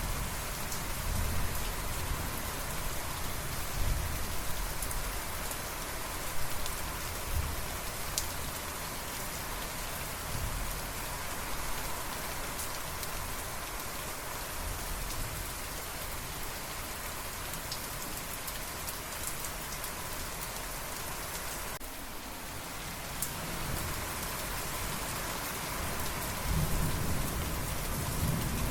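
Steady rain falling, with scattered sharp drop impacts. Low rumbles of distant thunder come in during the first several seconds and again near the end.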